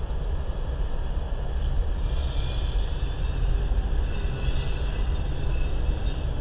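Amtrak California Zephyr passenger train rolling along the tracks, a steady rumble of cars and wheels on the rails.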